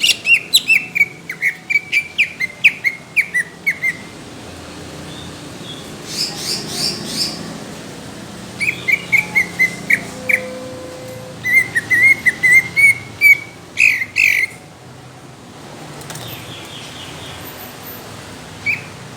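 Cucak ijo (green leafbird) singing in rapid runs of sharp whistled notes, about four or five a second, in several phrases broken by short pauses, with a higher-pitched phrase in between; it falls quieter near the end apart from a single note.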